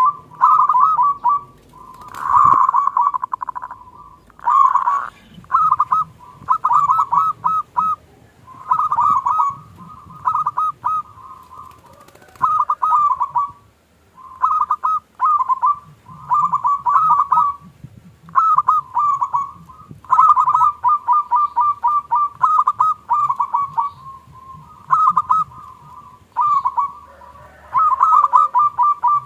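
Zebra doves (perkutut) cooing: phrase after phrase of quick, rapidly repeated coo notes, each a second or two long, with short pauses between. A sharp click about two and a half seconds in.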